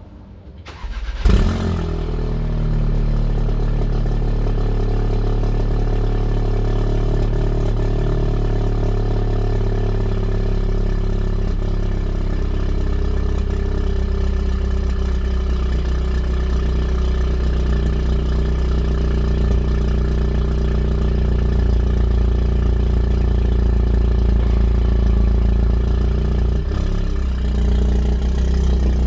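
Audi S3's turbocharged 2.0-litre four-cylinder, Stage 3 tuned and breathing through an RS3 exhaust, starting up with a sharp loud flare about a second in and then settling into a steady idle.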